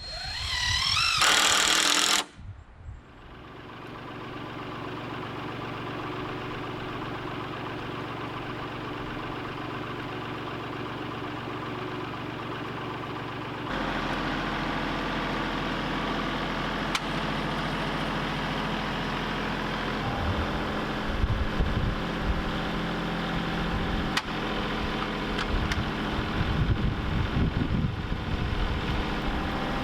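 An engine starting with a loud rising burst, then running steadily. About fourteen seconds in it steps up to a louder, heavier run, with irregular knocks over it.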